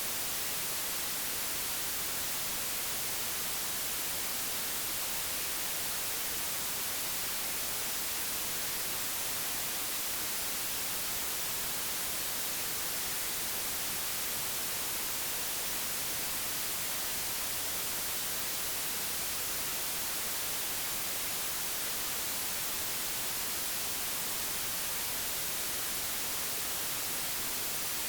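Steady white noise: an even, unchanging hiss, digitally generated for noise masking.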